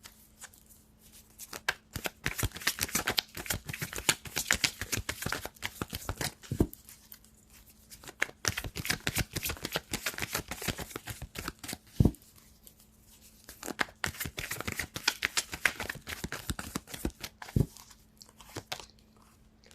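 A deck of reading cards being shuffled by hand: several spells of rapid flicking and riffling, with a single low knock about every five to six seconds. A faint steady hum sits underneath.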